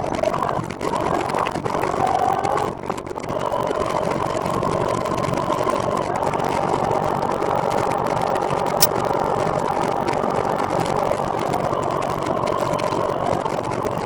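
Motor trike's engine running steadily while riding, with a short sharp click about nine seconds in.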